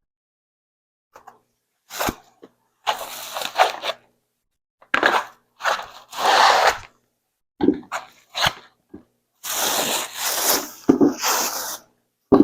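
Packaging being handled while a standing grow light is unboxed: irregular bursts of rustling with a few sharp clicks, the longest burst lasting about two seconds near the end.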